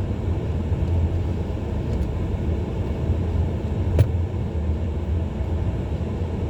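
Steady low rumble of a car's engine and tyres heard inside the cabin while driving slowly on a snowy road, with one sharp click about four seconds in.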